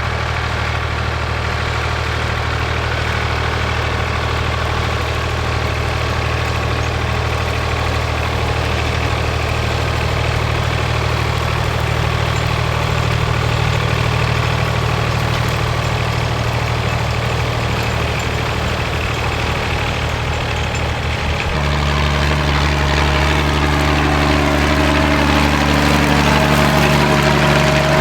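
Tractor engine running steadily under a light load. About twenty seconds in, the engine note changes suddenly to a deeper, louder one.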